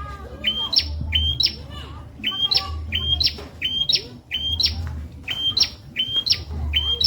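Prenjak songbird calling over and over: sharp chirps, each a short note leaping up to a higher squeak, coming in pairs about every second and a half, over a low pulsing hum.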